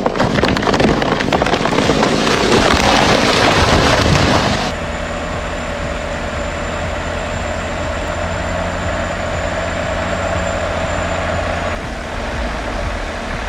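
A loud, noisy rush for about the first four and a half seconds, then a sudden change to a heavy truck engine running steadily, with a further abrupt change near the end.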